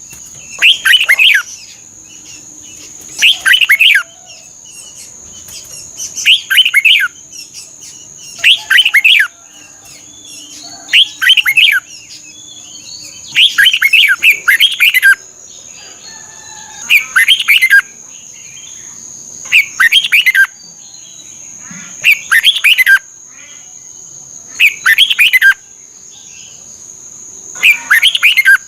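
Red-whiskered bulbul singing short, loud, warbling phrases, one about every two and a half to three seconds, about eleven in all. A thin, steady, high-pitched whine runs under the song throughout.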